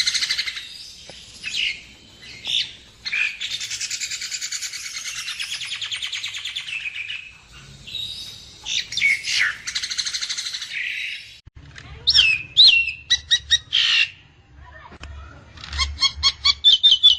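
Nias hill myna calling: loud clear whistles and slurred notes, a long buzzy rattling phrase, and near the end a fast run of short repeated notes.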